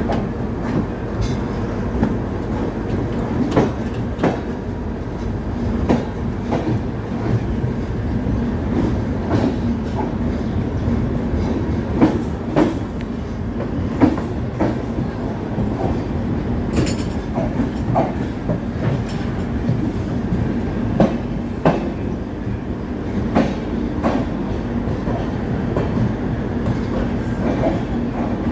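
Swaraj Express passenger train running along the track: a steady rumble and hum, with irregular clicks and knocks from the wheels passing over the rail.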